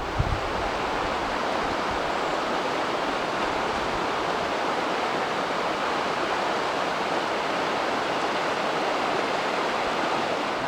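Steady rush of a waterfall on a mountain river, an even roar of falling water.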